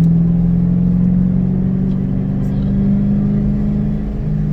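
2006 Ford Mustang GT's V8 droning steadily inside the cabin while driving. Its note creeps slightly higher, then drops back lower near the end.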